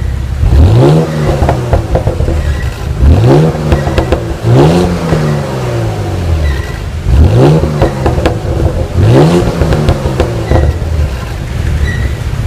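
Porsche Cayenne S twin-turbo V6 revved in neutral five times, the exhaust note climbing quickly and falling back slowly each time, with crackles from the exhaust as the revs drop.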